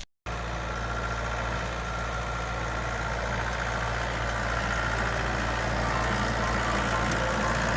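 Farm tractor engine running steadily, with a low hum that grows slightly louder over the seconds.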